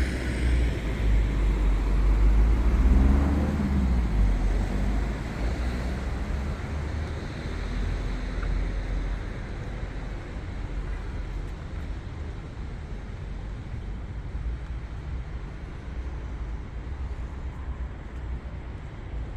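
City street traffic: a motor vehicle passes close by, loudest about three seconds in, then fades away into steady traffic noise.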